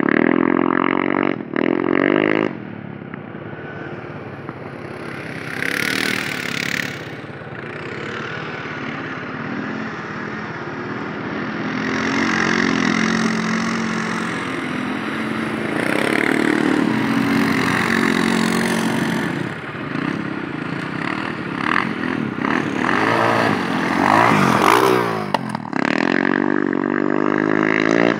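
Off-road engines of a dirt bike and an ATV running and revving, the pitch rising and falling with the throttle. The revving is loudest near the start and again about 25 seconds in.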